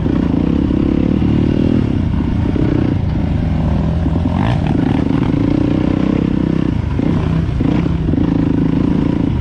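Dirt bike's single-cylinder four-stroke engine running on a rough trail, revs rising and falling as the rider works the throttle over the bumps. There is a brief clatter about four and a half seconds in, and the revs dip twice near the end.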